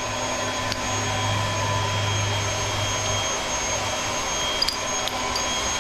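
Small electric pump running steadily while draining a water heater through its plastic drain valve, which is barely letting water through. A low hum under the whine drops away about three seconds in.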